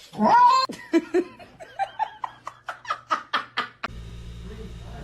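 A person laughing: a loud rising cry, then a run of short rhythmic laughs at about four a second that cut off suddenly about four seconds in, leaving a low steady hum.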